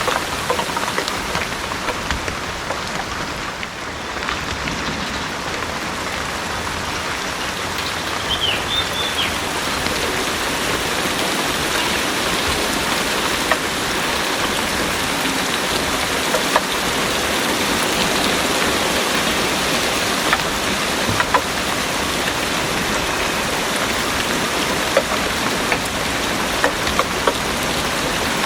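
Heavy rain pouring steadily, with the sharp ticks of single drops striking close surfaces.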